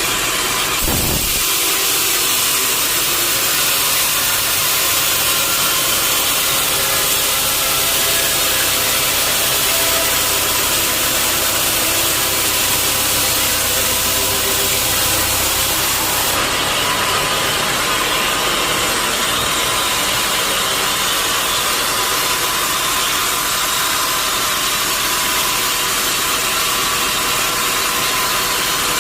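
Sawmill machinery running steadily, a continuous loud mechanical noise, with a short low thump about a second in and a change in tone about halfway through.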